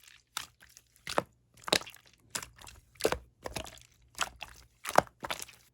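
Clear slime with mint marbling being squeezed and pressed by hand, giving a string of crisp crackling pops from trapped air, about two to three a second.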